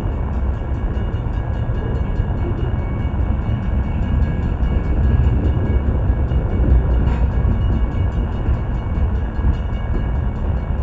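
Loaded freight cars (centerbeam flatcars stacked with wrapped lumber) rolling past close by, a steady rumble of steel wheels on the rails.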